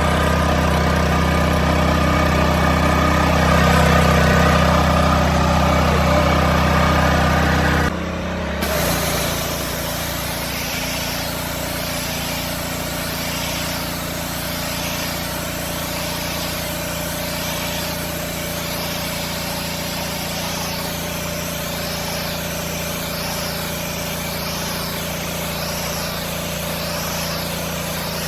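The 212cc OHV four-stroke engine of a Westinghouse WPX3400 gas pressure washer runs steadily just after starting on the first pull. About eight seconds in the sound breaks off. After that the engine runs on, quieter, under a high water-spray hiss that swells and fades about every two seconds.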